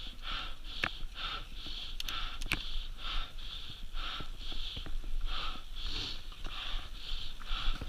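A rider panting hard and rhythmically close to the microphone, about two to three breaths a second, with a few sharp knocks in between.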